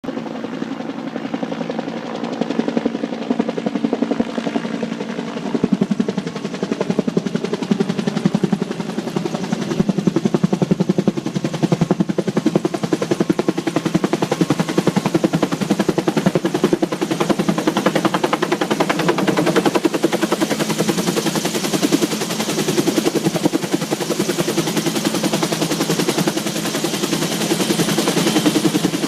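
Firefighting helicopter hovering low while it fills its water bucket: a loud, steady, rapid beat of the rotor blades with engine whine.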